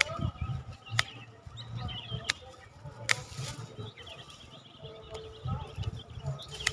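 Small birds chirping and calling, with four sharp knocks in the first few seconds and low rustling and handling noise.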